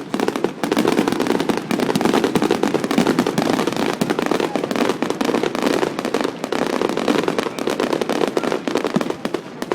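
Fireworks going off in a rapid, unbroken stream of sharp cracks and small bangs, like a crackling barrage. It starts abruptly and thins out near the end.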